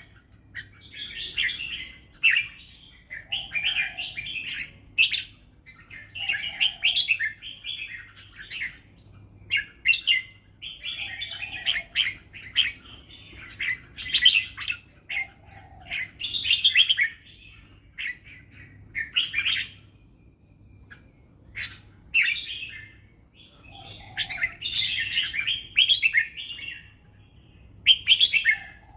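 Red-whiskered bulbul singing: short, quick warbled phrases repeated every second or two with brief pauses between them, over a faint steady low hum.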